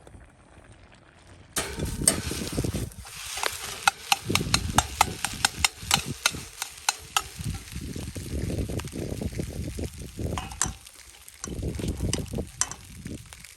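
Fried rice sizzling in a hot pan as it is stirred and tossed, a metal utensil clicking and scraping against the pan. The sizzle starts suddenly about a second and a half in and comes in surges.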